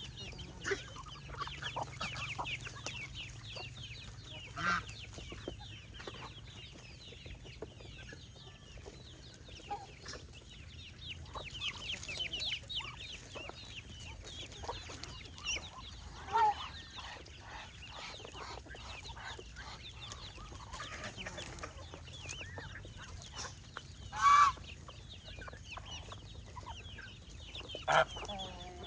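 Farmyard poultry calling: a continuous chatter of many small, high peeps, with a few louder, lower calls standing out, the loudest about three-quarters of the way through.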